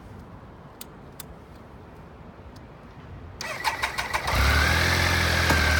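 A 2000 Triumph Sprint RS's 955cc fuel-injected triple being started: after a few faint clicks, the starter cranks about three and a half seconds in. The engine catches within a second and settles into a steady idle.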